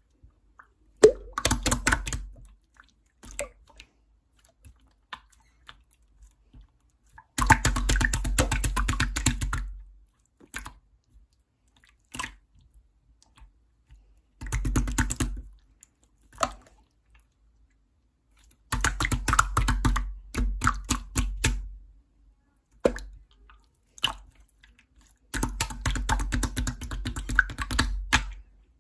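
Clear jelly slime being squeezed and pressed by hand, giving bursts of rapid, sticky crackling clicks. There are about five bursts, each two to three seconds long, with single clicks and pops between them.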